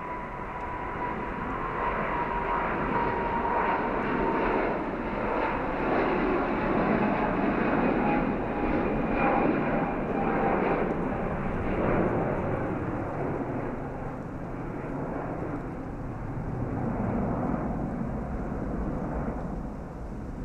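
Jet airliner's engines passing by: a broad roar with a thin whine that slowly falls in pitch. The roar swells through the middle and fades toward the end.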